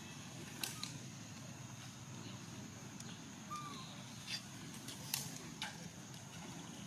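Faint outdoor background with a steady high thin whine, a few short sharp clicks or snaps scattered through it, the loudest a little after five seconds, and one brief chirp about halfway.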